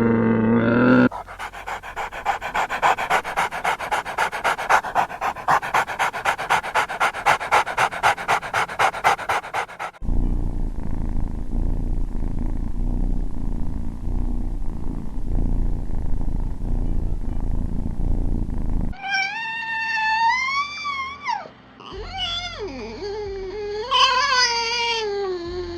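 A dog panting in fast, even breaths, then a low, rough rumble, then two high, wavering cries that rise and fall in pitch.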